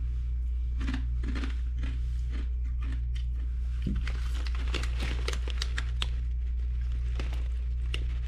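Food packaging crinkling and rustling while being handled, many short crackles, over a steady low hum.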